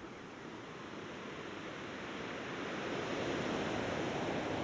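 Steady rushing of ocean surf, swelling gradually louder over the first three seconds and then holding steady.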